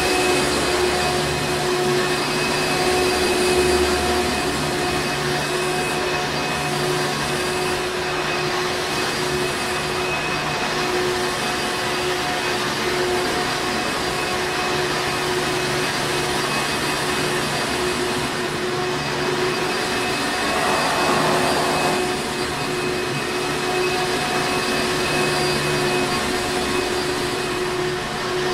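Hoover Encore Supreme upright vacuum cleaner running continuously: a steady rush of air with a constant motor whine.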